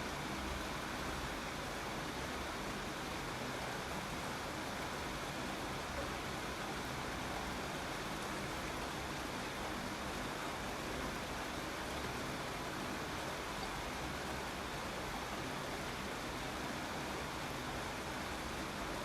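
Steady rain falling, an even hiss of drops with no single drop or thunder standing out.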